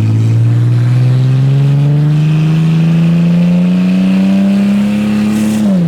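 Naturally aspirated Barra inline-six with its exhaust snapped off behind the headers, so it runs effectively straight piped, pulling hard. The loud, raw engine note climbs steadily in pitch for about five seconds, then drops sharply near the end.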